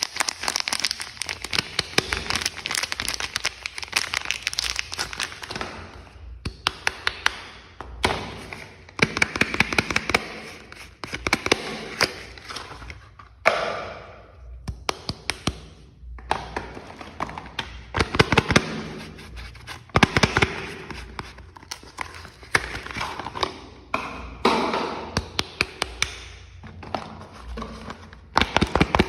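Bars of soap being unwrapped by hand: packaging crinkling and tearing in bursts, with many sharp taps and clicks.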